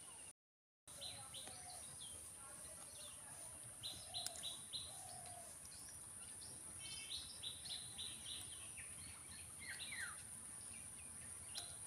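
Small birds chirping outdoors in clusters of short, high, repeated notes, with a few falling notes near the end, over a steady high hiss. The sound drops out completely for about half a second just after the start.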